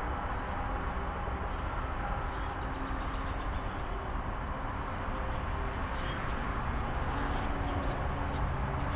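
Steady low outdoor rumble, like distant traffic, with a few faint high chirps about two and a half and six seconds in.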